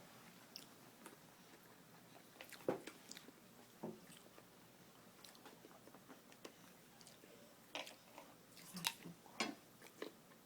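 An apple being bitten and chewed, faint crisp crunches coming now and then, with a loud bite a bit under three seconds in and a run of crunches from about eight to nine and a half seconds in.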